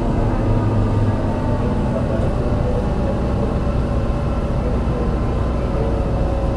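MAN NL202 CNG bus's engine running steadily, with a whine from its ZF Ecomat five-speed automatic gearbox over a constant low rumble. The engine has a bad misfire.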